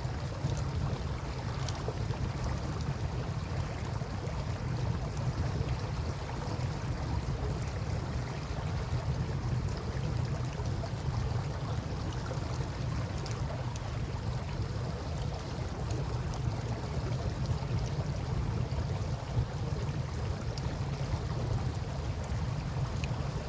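Steady rush of river water with a campfire crackling over it: scattered small pops and one sharper pop near the end.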